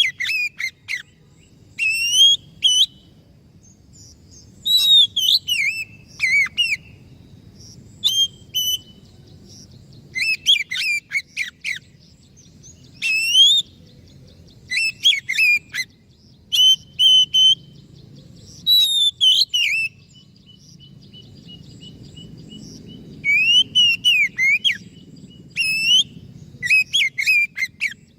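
Oriental magpie-robin (kacer) singing: short, clear whistled phrases of varied gliding notes, one after another with brief pauses between them.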